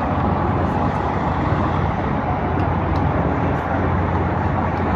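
Steady vehicle engine and road noise, with a constant low hum underneath.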